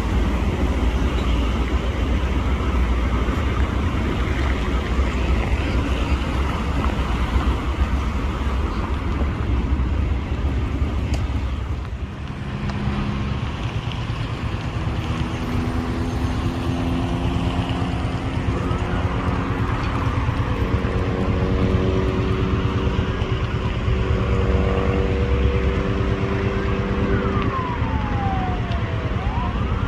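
Heavy engine and traffic rumble, changing about twelve seconds in to a steadier droning engine. A siren wails up and down near the end.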